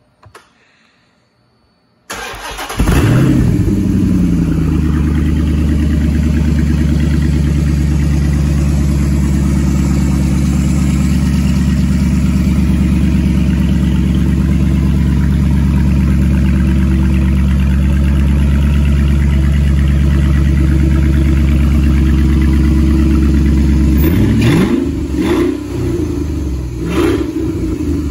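A Chrysler 5.7 Hemi V8 on a run-stand, exhaust open after its catalytic converters, started with the key: a brief crank about two seconds in, then it catches with a flare and settles into a steady idle. Near the end it is revved in several short blips.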